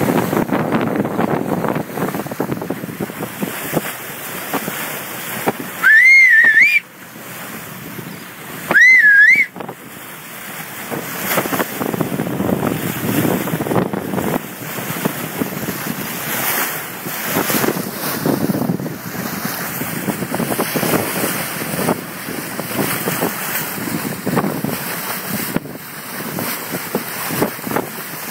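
Wind buffeting the microphone and water rushing past the hull of a sailboat under way. About six and nine seconds in come two loud, short, wavering whistles, each about a second long.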